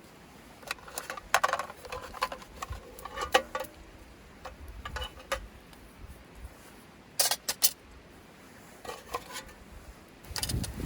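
Small metal camp gear being handled: scattered light clinks and knocks in short clusters, about a second in, around seven seconds and near nine seconds.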